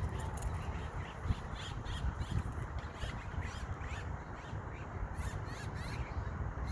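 A flock of waterbirds calling: many short, sharp calls overlapping and repeating over a steady low rumble.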